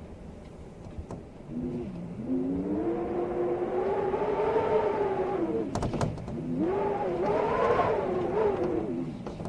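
Storm wind howling, a wavering moaning tone that swells about two seconds in and slides up and down in pitch over a steady rush. A few sharp clicks come around the middle, where the howl briefly dips.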